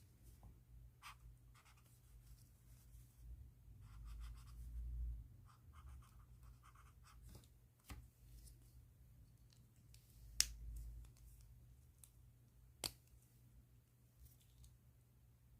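Faint pen strokes on paper: a few short scratchy scribbles, with several sharp clicks or taps, the loudest about ten seconds in.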